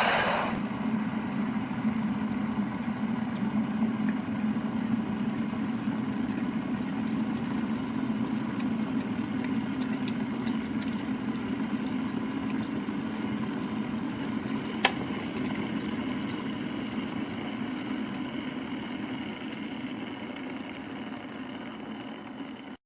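Electric kettle heating water, a steady rumbling hiss of water coming to the boil that slowly fades near the end, with a single sharp click about 15 seconds in.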